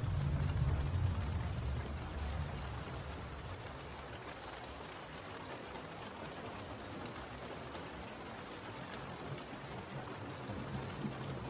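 Steady rain falling, with a low rumble in the first couple of seconds that fades away.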